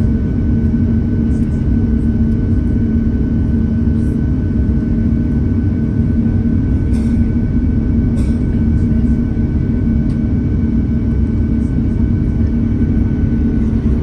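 Airliner jet engines and airflow heard from inside the passenger cabin: a steady, loud low drone with a faint, even hum above it.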